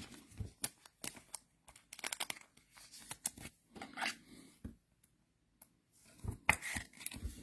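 Trading cards being handled and sorted: faint, scattered rustles and soft clicks of cards sliding against each other, with a brief pause partway through.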